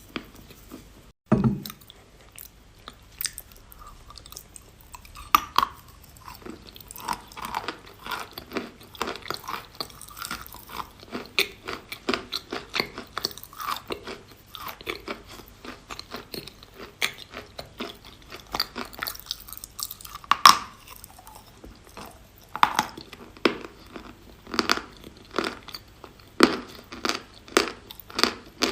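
Close-up crunching and chewing of chalk: bites break off pieces, then steady, uneven crunchy chewing. A few bites are louder, about five seconds in, near twenty seconds and about twenty-three seconds in.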